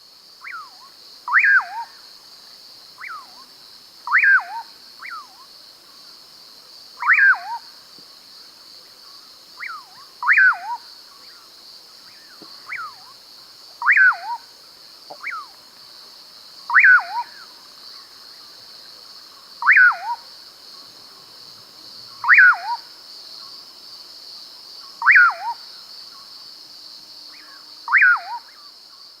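A bird repeating a loud call about every three seconds, each a quick whistle sliding steeply down in pitch, often led by a fainter short call. A steady high-pitched buzz runs underneath.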